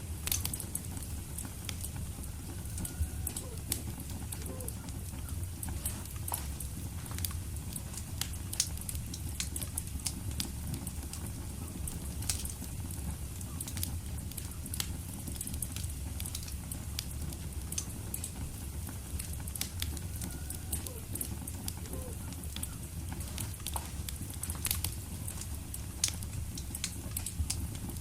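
Wood fire burning in a fireplace, crackling with many irregular sharp pops over a steady low rush of flame, and a few faint short whistles of escaping gas from the logs.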